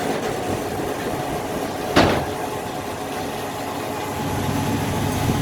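Steady engine noise with one loud bang about two seconds in, during truck loading.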